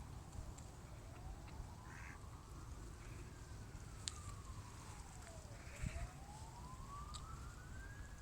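Faint siren wailing, its pitch slowly rising and falling about every five seconds, with a few short duck quacks over a low wind rumble.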